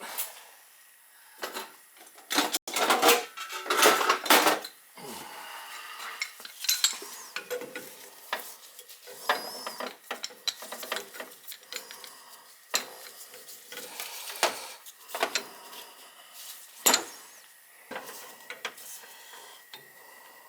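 Metal wrench clanking and scraping against steel boiler piping as a seized fitting is forced. Irregular sharp clinks and knocks, loudest and thickest in the first few seconds, with scattered strikes after.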